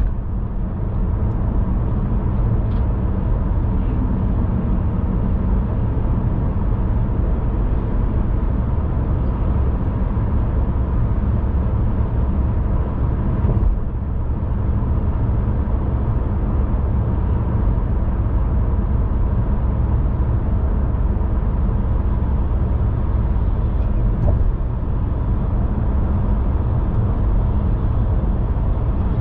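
Car driving along at a steady pace, giving a continuous low rumble of road and engine noise with a faint steady tone above it.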